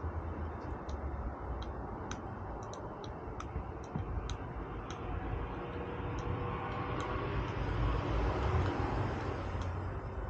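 Squirrel gnawing at a nut shell: irregular sharp clicks, about one or two a second, over a low steady background rumble.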